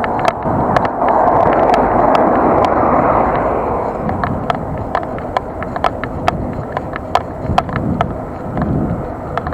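Bicycle ride heard from an action camera: steady rush of wind and tyre noise, louder for a couple of seconds about a second in, with frequent sharp ticks and rattles several times a second.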